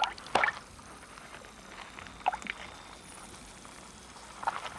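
A few short watery sloshes and splashes: two close together at the start, one about two seconds in and one near the end, over a faint steady hiss.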